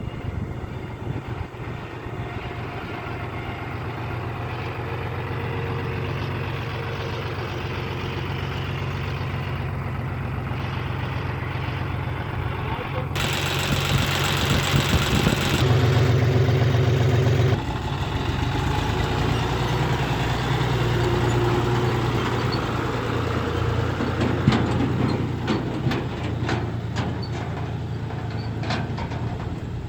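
Diesel engine of a John Deere 5041C tractor running at a steady idle. About halfway through it grows louder for a few seconds, then drops back suddenly to a steady run, with a few light clicks near the end.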